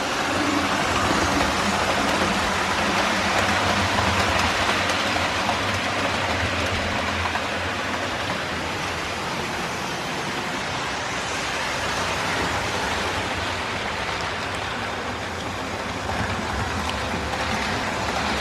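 Steady rushing running noise of a moving vehicle, heard from inside, with a low hum beneath and no distinct events.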